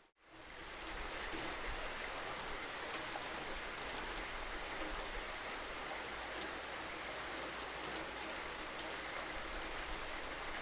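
Steady, even rainfall. The sound cuts out almost completely right at the start and fades back in within about a second.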